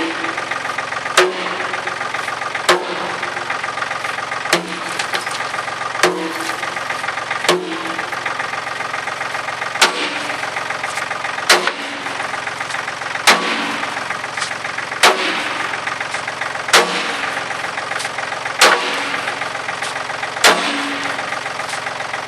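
A 10-pound sledgehammer striking the steel bucket of a John Deere 790 tractor to knock frozen ice loose, about a dozen heavy, ringing blows, one every one and a half to two seconds. Under them the tractor's three-cylinder diesel runs steadily.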